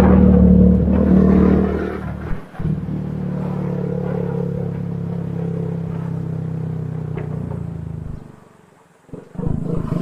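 Motorcycle engine running steadily, picked up by a helmet-camera external microphone while riding. It dips briefly about two seconds in, then fades away about eight seconds in before coming back just before the end.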